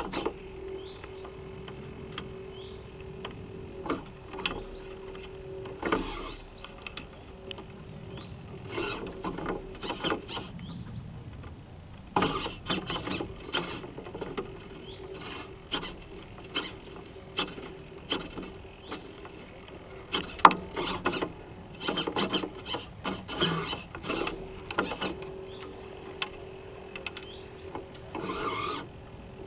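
Onboard sounds of a North Wind 360 radio-controlled sailing boat under way. A steady mechanical hum comes and goes, mixed with irregular rubbing, creaking and knocks from the hull and rigging.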